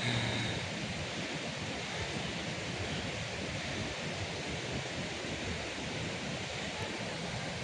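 Steady rush of water from a waterfall and river.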